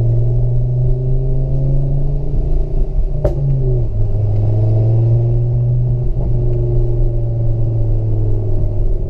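Ford Focus RS Mk2's turbocharged five-cylinder engine through a Cobra aftermarket exhaust, running at fairly steady revs with a low droning exhaust note. The pitch dips slightly about four seconds in and then holds, and there is one sharp click a little past three seconds in.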